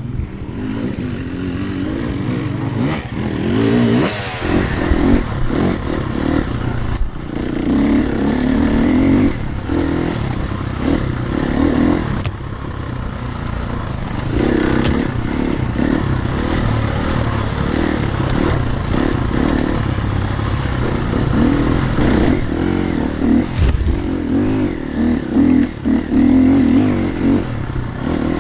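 Enduro dirt bike engine revving up and down under constantly changing throttle as it is ridden, with scattered clatter and knocks.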